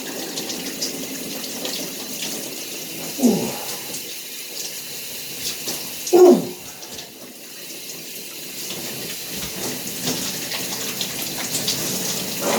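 Shower spray running steadily, with two short falling-pitch cries from the man under the cold water, about three and six seconds in, the second louder.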